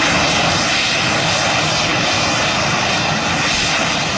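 Bang fai (homemade black-powder rocket) motor igniting abruptly and burning with a loud, steady rushing noise as the rocket launches and flies.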